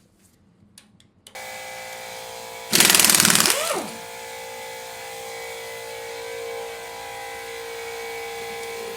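An air compressor starts with a steady hum about a second in. About three seconds in, an air impact wrench hammers for about a second on a head bolt of a 7.3 IDI diesel, then spins down.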